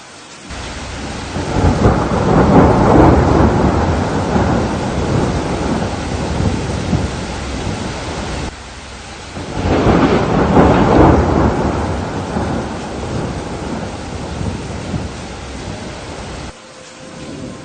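Steady rain with two long rolls of thunder, each building to a heavy rumble and slowly fading; the sound cuts off abruptly between them and again near the end.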